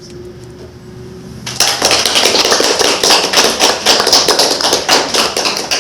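The last held note of a song fades out. About a second and a half in, a small audience starts clapping and keeps up a dense patter of claps until the end.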